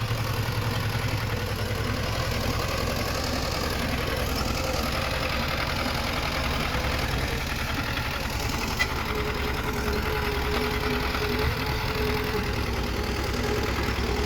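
Heavy-equipment diesel engine running steadily at a constant pace, with a brief sharp click about nine seconds in.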